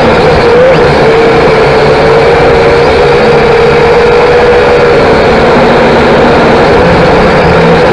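Drone's motors and propellers whining steadily, one strong hum whose pitch wavers slightly.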